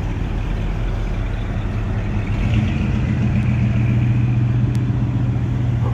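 A car engine running close by with a steady low note, growing louder and fuller about two and a half seconds in.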